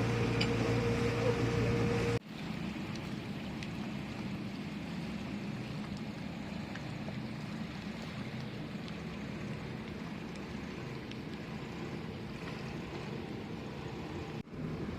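Boat engine running with a steady hum. About two seconds in there is an abrupt cut to a quieter, even engine drone, which runs on until another cut near the end.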